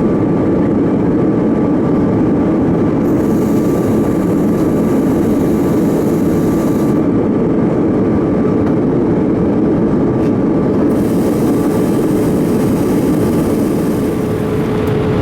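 Steady cabin roar of a Boeing 787-8 in flight, rushing airflow and engine noise heard from a passenger seat, with a faint steady whine.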